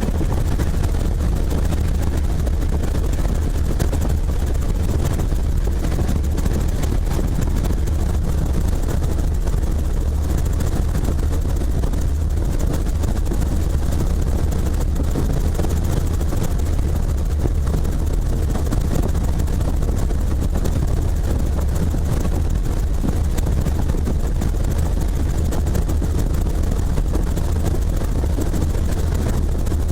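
Helicopter running steadily, a constant low drone of rotor and engine with no change in pitch or level.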